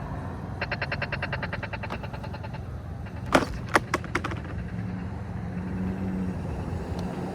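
InMotion E20 electric unicycle rolling, with a steady low tyre and wind rumble. A quick even run of ticks lasts about two seconds early on, then a few sharp cracks come close together about halfway through.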